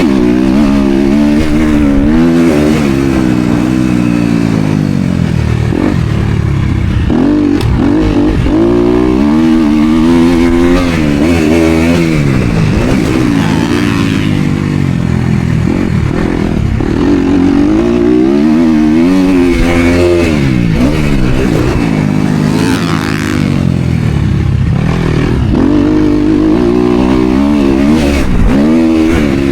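Motocross dirt bike engine racing, its pitch climbing and dropping back again and again every second or two as the throttle is opened and chopped.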